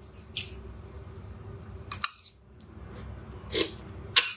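A person tasting and chewing a mouthful of stew, with a handful of short mouth clicks and smacks.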